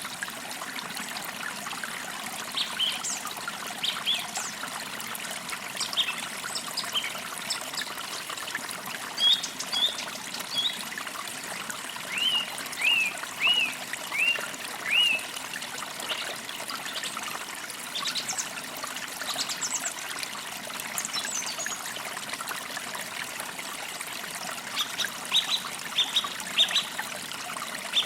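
A forest creek trickling and splashing steadily, with small birds chirping over it: scattered short chirps throughout, a run of about five alike calls roughly halfway through, and a busier burst of chirps near the end.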